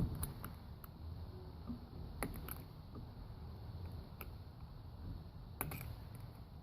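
A pick tool working at the old valve stem seals on a Toyota 1ZZ cylinder head: a scattering of short, sharp, irregular clicks and scrapes over a low background hum.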